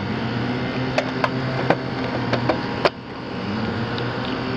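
Steady hum of a running HVAC condensing unit, with about six sharp metallic clicks and knocks in the first three seconds as the electrical disconnect box beside it is handled and opened.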